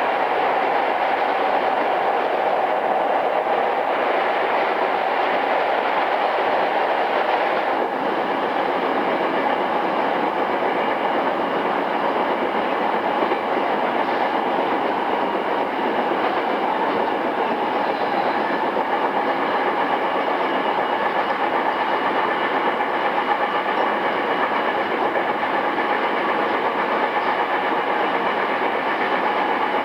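Running noise of a pre-renewal JR East E217 series commuter train, heard inside motor car MoHa E217-2006: a steady rumble of wheels on rail, with thin steady high tones coming in about halfway through. The sound has the dull, high-cut quality of an old cassette tape recording.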